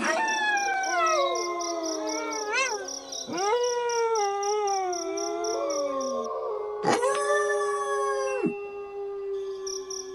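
Several wolves howling together: long, overlapping howls that glide up and then fall in pitch, while one voice holds a steady tone beneath. A new howl rises about a second in, then again near the middle and about seven seconds in. Insects chirp in a steady pulse behind them.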